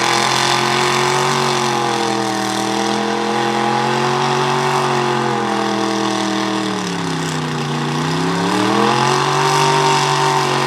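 Mega truck engine running, its pitch wavering up and down, sagging about seven seconds in and then climbing back up.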